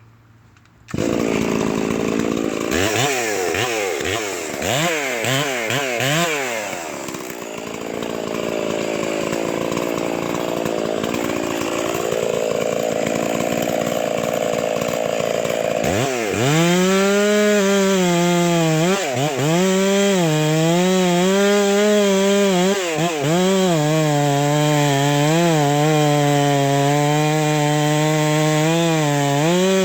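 Modified Stihl MS 460 two-stroke chainsaw with a 28-inch bar starting about a second in and revved up and down several times. It then runs at high speed, and from about halfway its pitch repeatedly dips and recovers as it works under load.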